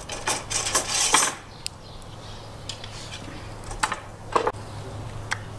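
Cooking gear being handled: a burst of clattering and clinking in the first second or so, then a few scattered sharp clicks and knocks, over a steady low hum.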